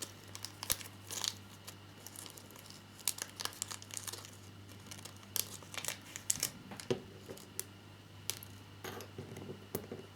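Small plastic parts bag crinkling and rustling as tiny metal washers and screws are put back into it, with scattered light clicks.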